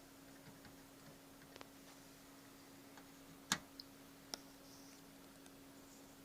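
A few short, sharp clicks over a faint steady hum, the loudest click a little past halfway, another just under a second later.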